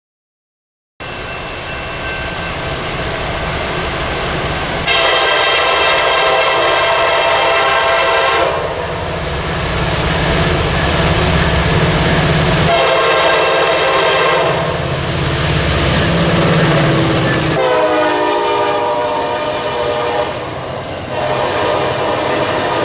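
Locomotive horn sounding three times over the rumble of a passing train: a long blast, a shorter one, then a long one whose pitch drops as the locomotive passes.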